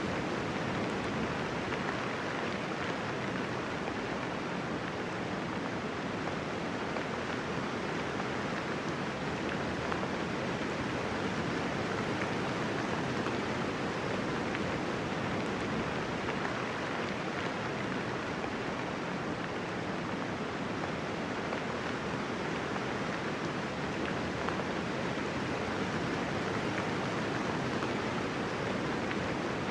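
Steady soft rain falling, an even hiss of many raindrops with no thunder and no separate drips standing out.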